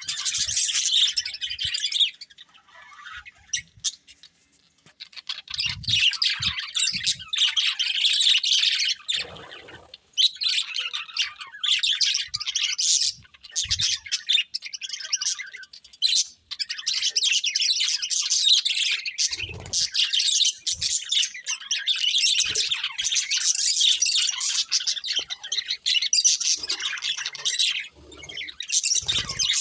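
Budgerigars chattering: fast, warbling chirps and squawks in bouts, with a short lull a few seconds in.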